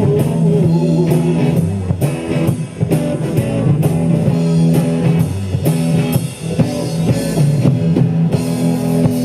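Live rock band playing an instrumental passage: guitar and bass over a drum kit keeping a steady beat.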